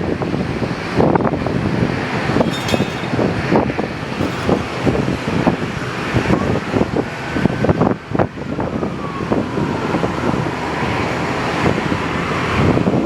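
Strong gusty wind buffeting the microphone in irregular low rumbling blasts. In the middle a faint whine rises in pitch, then slowly sinks back.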